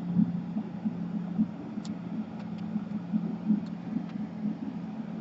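A steady low machine hum with an uneven throb, and a few faint light clicks.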